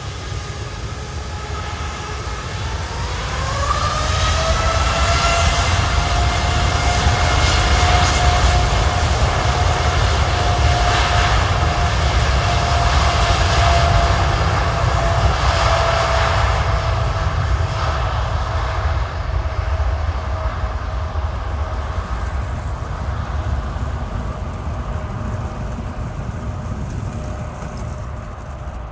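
Boeing 747-400F freighter's four jet engines at takeoff power: a whine climbs in pitch a few seconds in as the engines spool up, and a deep rumble builds to its loudest about a third of the way through, then slowly fades as the jet moves away.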